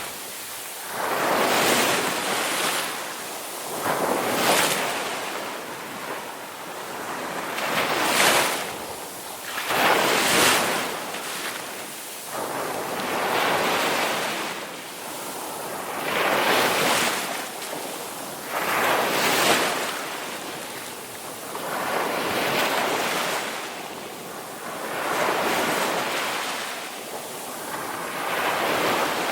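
Ocean surf: waves breaking and washing in, each surge swelling to a hiss and fading every two to three seconds.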